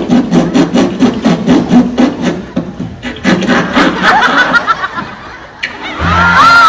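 Rhythmic laughter, about five 'ha' pulses a second, which breaks off about two and a half seconds in and then comes back briefly. Near the end a loud music cue with sliding whistle-like tones over a bass comes in.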